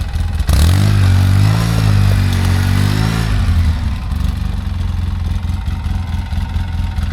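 Polaris side-by-side engine revving hard for about three seconds, its pitch wavering, then dropping back to a steady lower run. It is trying to drive out of deep snow where the machine is stuck.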